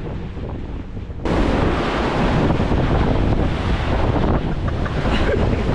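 Strong wind buffeting the microphone on the deck of a fast-moving tour boat, jumping abruptly to a loud, steady rush about a second in, over the low drone of the boat's engine.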